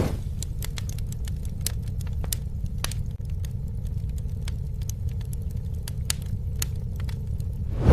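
Campfire burning with a steady low rumble of flames and irregular sharp crackles and pops from the wood, with a brief louder surge right at the end.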